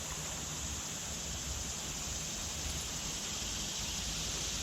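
Steady rushing of river water pouring over or through the dam, a constant hiss with a low rumble underneath.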